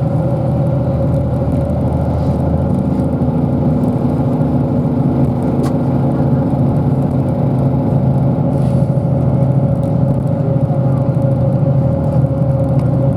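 Bus engine running with cabin noise heard from inside the bus: a steady low drone with a steady higher tone over it, and a single click about six seconds in.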